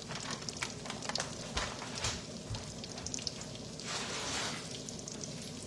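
Zucchini fritters frying in bacon grease in a nonstick skillet, sizzling steadily with a fine crackle of small pops.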